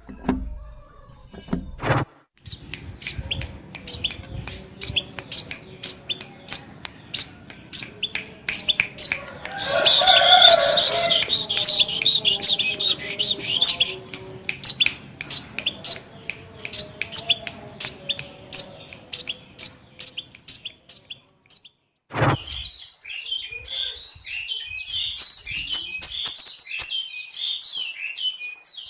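A small songbird, the 'kolibri' of Indonesian bird keepers (a sunbird), singing vigorously in short high chirps at about two a second, with a louder stretch about ten seconds in. After a break at about twenty seconds it switches to a denser, faster twittering.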